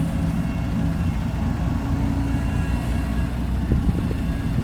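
Diesel truck engine running steadily with a low drone. Two short knocks come about three-quarters of the way through.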